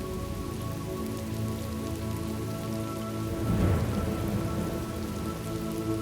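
Steady rain ambience under a soft, sustained drone of held music tones. A short low thunder rumble swells up a little past the middle.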